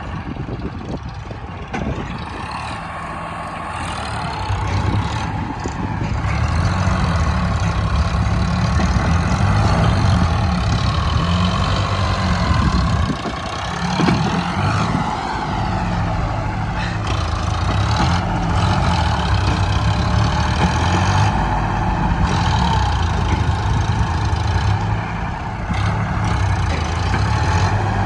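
JCB 3DX backhoe loader's diesel engine working under load, its level rising and falling repeatedly and growing louder after about six seconds.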